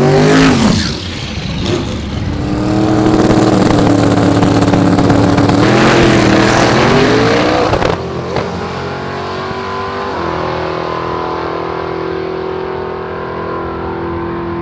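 Drag-race car engines running: a loud engine note drops at the start, then holds steady and swells briefly upward; after a sudden change about eight seconds in, a quieter, steady engine note runs on.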